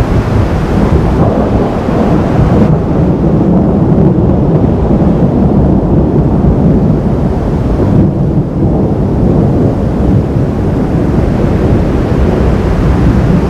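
Rolling thunder: a long, deep rumble that goes on without a break, its higher hiss dropping away a few seconds in.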